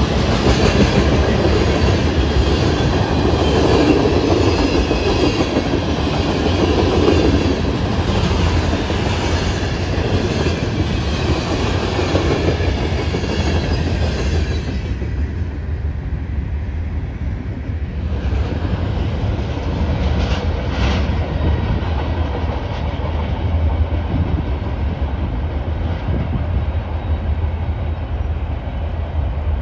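Train cars rolling past, wheels running over the rails with a dense rattle and rumble. About halfway through the high-pitched wheel noise drops off suddenly, leaving a steady low rumble with a few brief sharp sounds.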